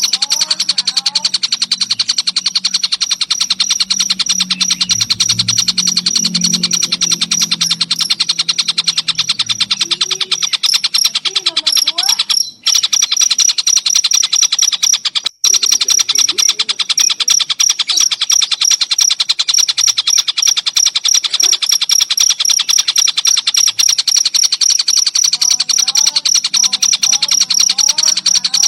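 Cricket trilling in a fast, unbroken, high-pitched pulse, with bird calls mixed in. The sound drops out for an instant twice, near the middle.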